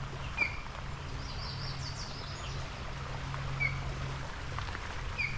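Wild birds calling in woodland: short chirps every few seconds and a brief burst of higher, quick twittering about a second and a half in, over a steady low background hum.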